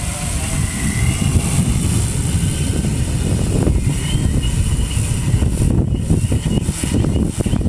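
Strong wind buffeting the microphone, the loudest sound, over a SkyHero 1000 quadcopter in flight, its four brushless motors and 17-inch wooden propellers giving a faint wavering whine.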